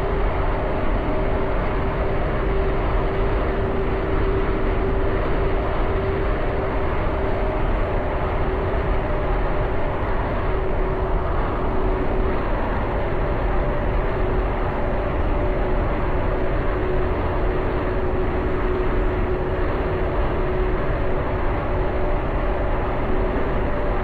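Jet aircraft engines running steadily: an even roar with a constant droning hum held throughout.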